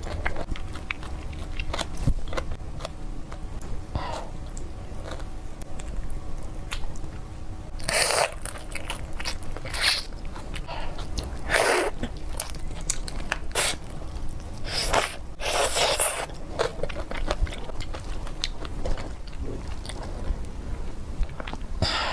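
Close-miked mukbang eating sounds: chewing and biting into seafood, with many small crunches and clicks and a few brief louder bursts.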